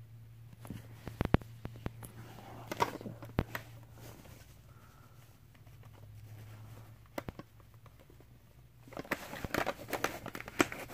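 Handling noise of a plastic toy truck and trailer: scattered light clicks and knocks, then a denser run of clicking and rustling near the end, over a steady low hum.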